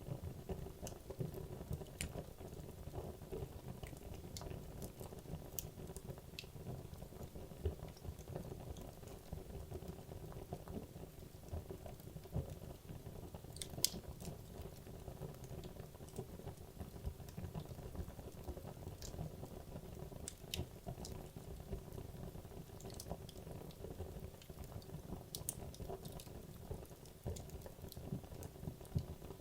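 Wood logs burning in a fireplace: a steady low rumble of the flames with scattered crackles and pops, one sharper pop about 14 seconds in.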